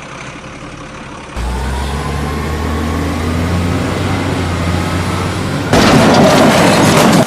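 Tractor engine running steadily with a low, even note, starting abruptly about a second in. Near the end a loud, harsh rushing noise comes in over it and cuts off suddenly.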